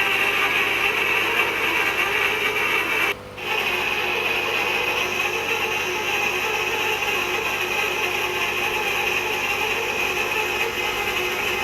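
Manually operated hot tapping machine working on a steel pipe: a steady mechanical noise, with a brief dropout about three seconds in.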